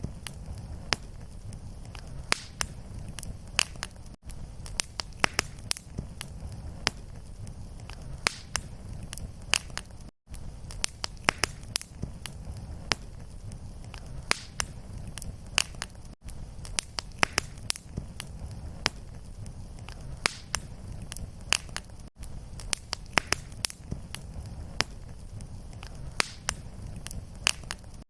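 Fireplace wood fire crackling, with frequent sharp pops and snaps over a steady low rumble. A brief silent gap about every six seconds, where the short fire recording loops.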